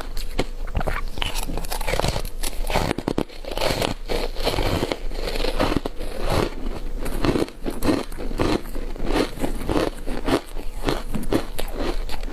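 Person biting and chewing matcha green tea powder ice: close, crisp crunching and crackling, with crunches coming about two to three a second in the second half.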